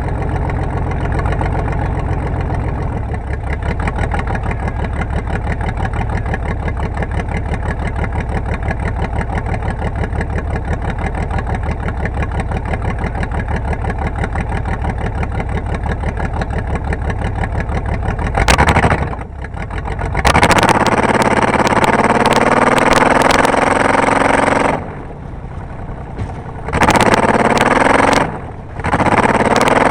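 Car engine running steadily, then revved hard in repeated bursts, its pitch rising with each burst during the last third.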